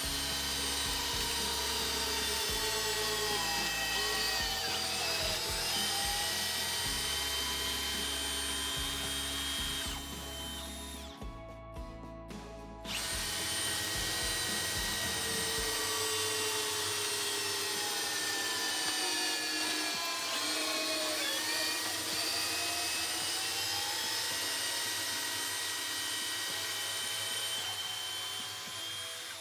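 Cordless drill driver motors running under load, their whine sagging in pitch as they bog down and then picking up again. There are two long runs with a short break about ten seconds in.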